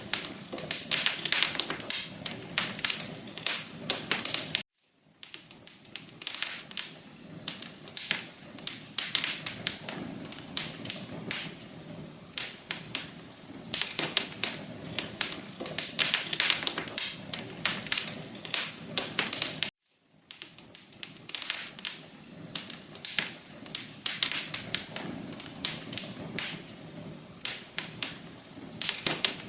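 Fireplace crackling: dense, irregular pops and snaps over a soft hiss. It cuts out briefly twice, about five seconds in and about twenty seconds in.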